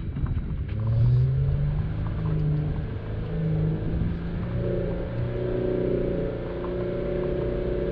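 Jeep Wrangler Unlimited Rubicon engine running, its pitch rising about a second in and then going up and down with the throttle, over a low rumble.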